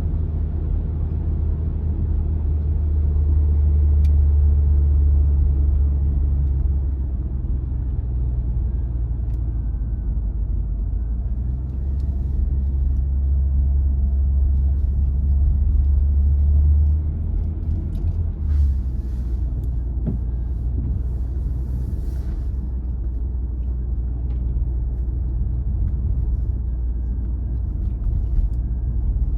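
Car driving on the road: a steady low rumble of engine and tyres that swells louder twice, with a few faint ticks and short hisses about two-thirds of the way through.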